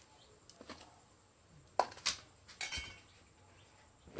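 A few light clinks and knocks of kitchenware, two sharp ones about two seconds in, followed by a short scraping rustle.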